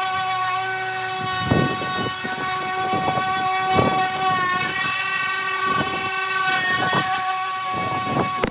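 Electric power sander running on a wooden table top, a steady motor whine that dips slightly as the pad is pressed into the wood, with irregular knocks as it is moved across the surface.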